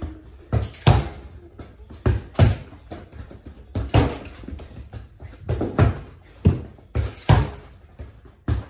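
Soccer ball being passed against a wall and received, over and over: a steady run of sharp thuds, about two a second, as the ball is kicked, strikes the wall and is trapped underfoot.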